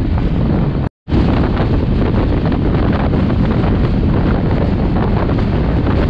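Wind buffeting the microphone over the steady running noise of the Durg Humsafar Express, heard from aboard the moving train. The sound cuts out completely for a moment about a second in, then carries on unchanged.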